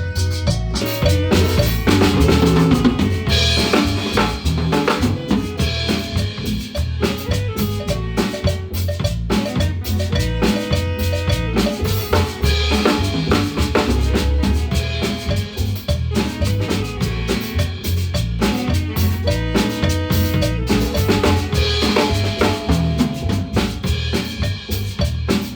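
Guatemalan marimba band playing a tune with a drum kit: a steady beat of bass drum and snare under runs of marimba notes.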